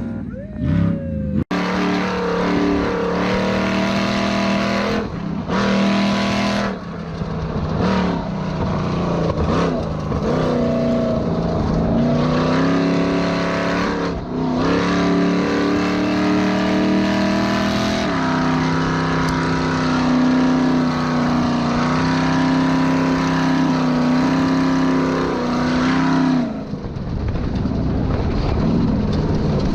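V8 engine of an Ultra4 race car, a mild LQ4, running hard. Its pitch rises and falls with the throttle and holds steady for stretches, and the sound changes abruptly several times.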